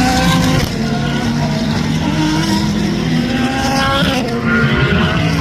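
Race car engines running hard at speed, several engine notes overlapping, their pitch climbing and then stepping down as the cars shift gears.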